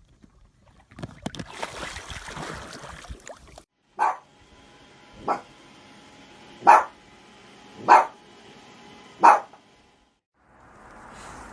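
A dog barking five times, single short barks about a second and a half apart, after a few seconds of rustling noise.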